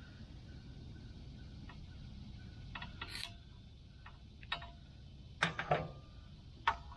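A few light clicks and taps from hands working the pull-start rope and recoil starter of a small engine, at irregular intervals, the loudest cluster a little past halfway.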